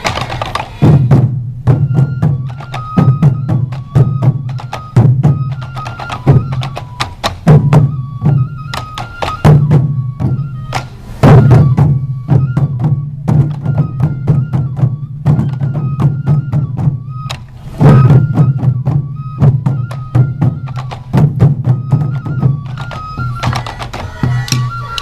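Sansa odori music: a troupe of taiko drums beating a steady, driving rhythm, with a yokobue bamboo flute playing a stepping melody above the drumming.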